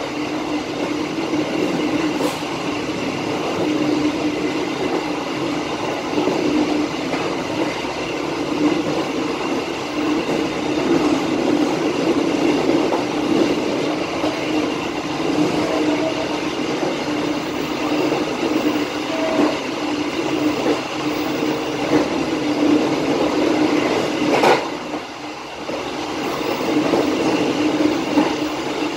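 Passenger train coaches running along the track at speed: a steady rolling rumble with a constant hum. There is a sharp click about 24 seconds in, and the noise drops briefly just after it.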